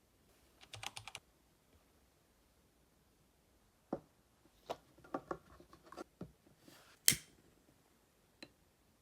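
Typing on a computer keyboard: a quick run of keystrokes about a second in, then scattered single key presses, the loudest about seven seconds in.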